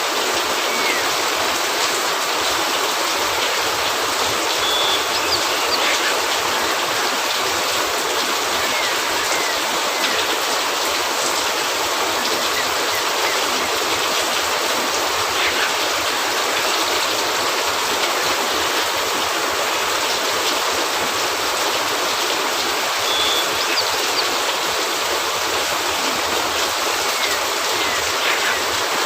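Steady rain falling, an even hiss that holds at the same level throughout, with faint scattered ticks.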